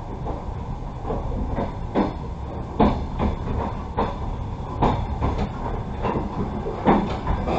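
Passenger railway carriage running on the track, with a steady low rumble and sharp, irregular knocks from the wheels passing over rail joints, roughly one every half second to second.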